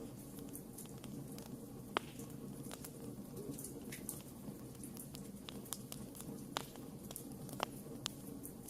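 Wood fire crackling: scattered sharp pops and snaps over a steady low background, the loudest pop about two seconds in.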